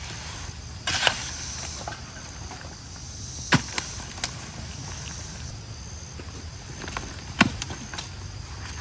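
Scattered knocks and snaps, about half a dozen, of debris being pulled and moved by hand from a clogged ditch culvert, over a steady high chorus of insects.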